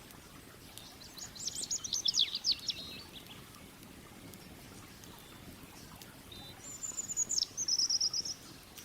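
A songbird sings two short phrases of rapid high notes, one about a second in and another ending in a quick trill near the end, over a low steady rush of the river.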